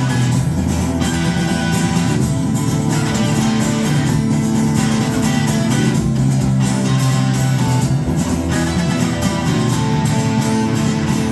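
A rock band playing live: guitars and bass over drums in an instrumental passage of a song.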